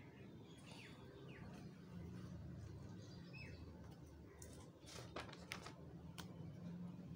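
Quiet room tone with a steady low hum and a few faint, short, falling bird chirps. A handful of soft clicks come a little after the middle.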